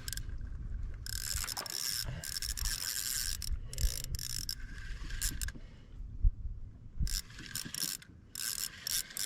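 Fishing reel being wound, its gears and clicker whirring in several spurts, with a pause in the middle: line being reeled in, typical of getting the rig in to re-tie.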